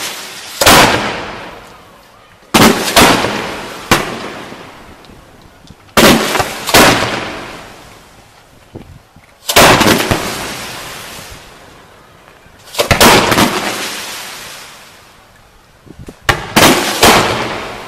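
Display fireworks fired close by: about ten loud, sharp bangs a few seconds apart, several coming in quick pairs, each trailing off over a second or two.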